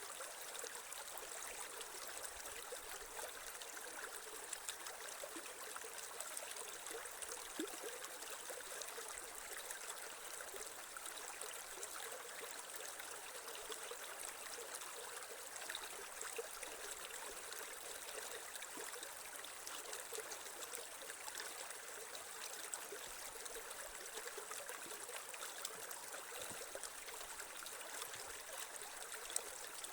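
A creek's water flowing and trickling steadily over stones, an even rushing with small splashes and no change in pace.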